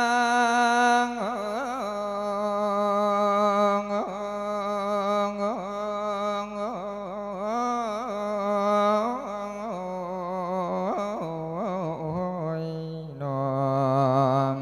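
Thai thet lae chanted sermon: a monk's solo male voice singing long, wavering melismatic phrases, holding each note with ornamented bends in pitch.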